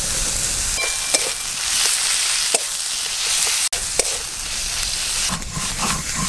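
Sliced onions and ginger-garlic paste sizzling in hot oil in an aluminium kadai, with a few short clicks and scrapes of a metal spatula stirring them. Near the end a stone pestle rubs over a flat grinding stone, crushing dry-roasted spices.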